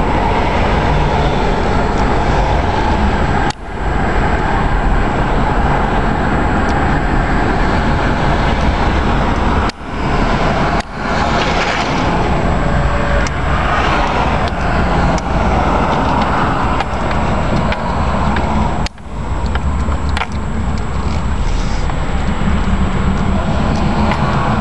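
Steady road and wind noise from a vehicle driving along, with a low rumble; the sound drops out briefly and suddenly four times.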